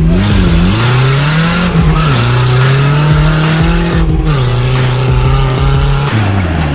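Off-road competition 4x4's engine running hard under throttle, its pitch holding for stretches and rising and dropping several times.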